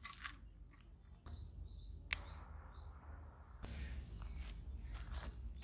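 Small birds chirping faintly over a low outdoor hum, with scattered light taps and one sharp click about two seconds in.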